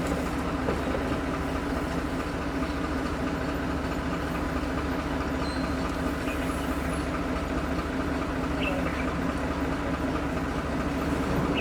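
A vehicle engine idling, a steady even low hum that does not change, with a few faint short high chirps over it.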